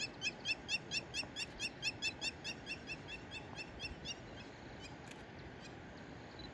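A bird calling in a fast, even series of short high notes, about four a second, that fades out about four seconds in.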